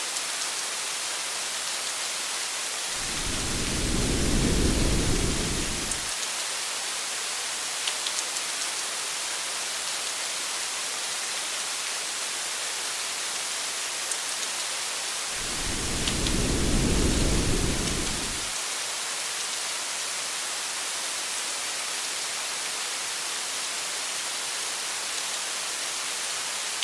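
Steady hiss of heavy rain, with two low rumbles of distant thunder about twelve seconds apart, each lasting about three seconds.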